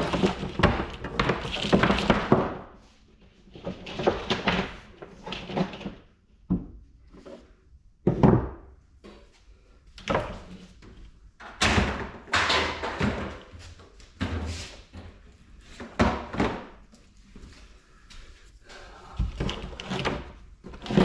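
Scrap electrical parts and wire being handled, sorted and dropped into scrap buckets: a string of clunks, thuds and rustles with short pauses between them.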